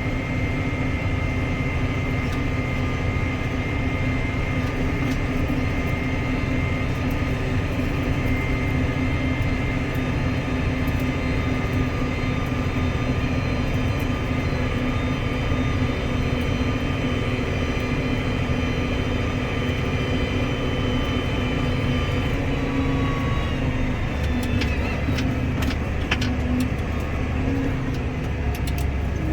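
Case 140 tractor's diesel engine running steadily as it drives, heard from the cab, with a few light clicks and rattles near the end.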